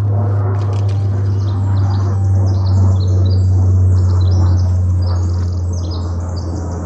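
A small songbird scolding in answer to being called, with a fast, dense run of short, high chip notes that starts about two seconds in and stops shortly before the end. A steady low hum runs underneath throughout and is the loudest part.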